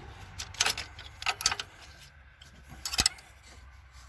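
Small metal clinks and clatters of tools and fittings being handled in an engine bay: a few short clicks about half a second and a second and a half in, and one sharp knock at about three seconds.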